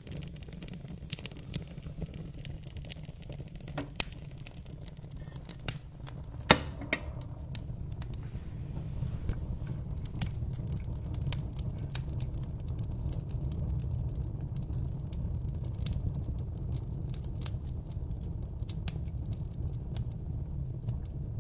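Wood fire crackling, with irregular sharp pops over a steady low rumble; one louder pop about six and a half seconds in.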